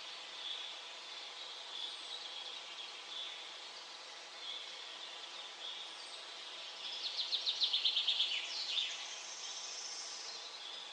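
Songbirds calling in a forest: short high chirps repeat every second or so, and about seven seconds in one bird gives a quick trill of rapid notes that ends in a falling note.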